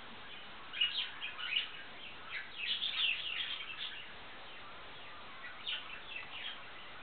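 Small birds chirping: clusters of short, quick high notes, busiest in the first half and again near the end.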